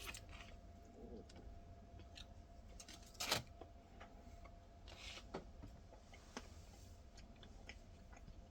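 Quiet room with a few faint clicks, one sharper click about three seconds in and a short rustle about five seconds in: small handling noises at a table.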